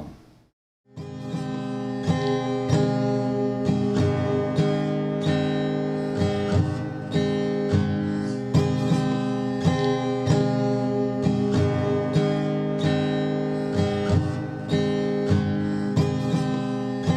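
Acoustic guitar music: chords strummed in a steady rhythm, starting after about a second of silence.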